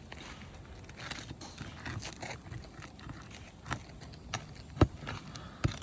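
Tool working a roofing nail out from under an asphalt shingle: soft scraping and clicks, then a few sharp metal knocks in the second half, the loudest near the end.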